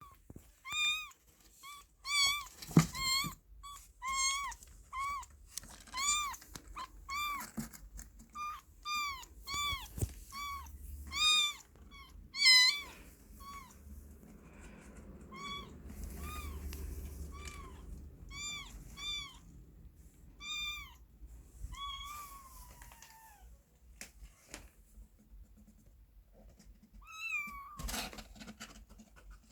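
Young kitten meowing over and over, short high calls that rise and fall in pitch, about one or two a second, thinning out after about twenty seconds. A few brief knocks.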